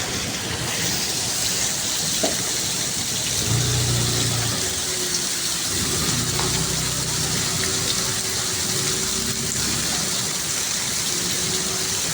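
Steady heavy rain, an even rushing hiss of water falling, with a low hum underneath from about three seconds in until about ten seconds.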